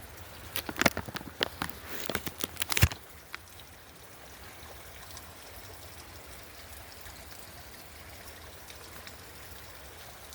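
A quick, irregular run of clicks and knocks for about the first three seconds, the loudest near the end of the run. Then a steady faint rushing like running water.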